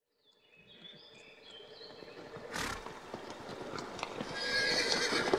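Horse whinnying: a long neigh that opens with high squealing tones and grows louder and rougher toward the end.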